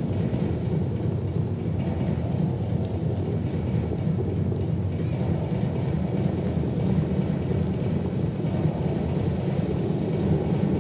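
The Dubai Fountain's water jets crashing back onto the lake: a steady, heavy rush of falling water, like a downpour.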